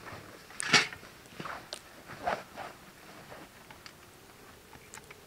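Rustling of backpacks and gear being handled, in a few short bouts over the first three seconds, the loudest about a second in, then a few faint ticks.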